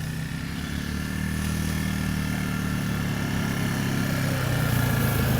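A vehicle engine running steadily and getting slowly louder, with a thin high whine above it.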